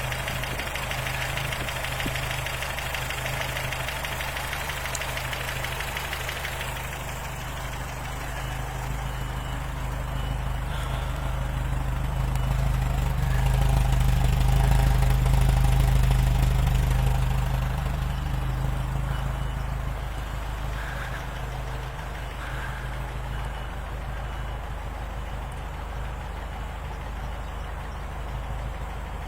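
Rebuilt 3.5-litre Buick V8 in a 1976 Triumph Spitfire running, a steady low engine note. A hiss over it stops about seven seconds in, and the engine grows louder through the middle before easing back.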